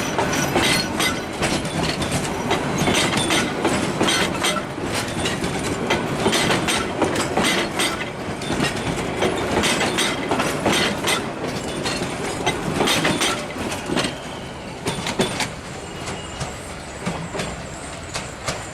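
Passenger train coaches rolling past, their wheels clacking rapidly and irregularly over the rail joints above a steady rumble. The clacking thins out and the level drops over the last few seconds as the end of the train goes by.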